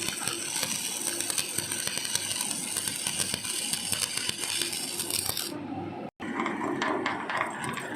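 Steady crackle and sizzle of stick (arc) welding on a steel deck joint, cut off abruptly about six seconds in, after which a different clattering sound follows.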